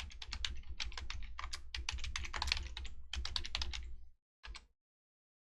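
Rapid typing on a computer keyboard, a quick run of key clicks that stops about four seconds in.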